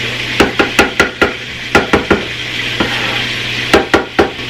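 A spoon knocking and tapping against a blender jar in quick clusters of sharp clinks as mayonnaise is spooned in, over the steady sizzle of chicken breasts frying in a pan.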